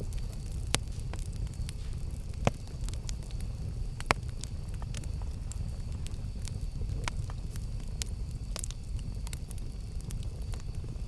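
Campfire burning with a steady low rumble and scattered sharp crackles and pops, the loudest about a second in, at two and a half seconds and at four seconds.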